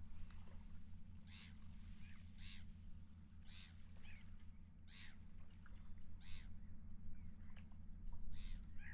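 Seagulls calling: a run of harsh calls about once a second, with a short gap near the end, over a low steady rumble.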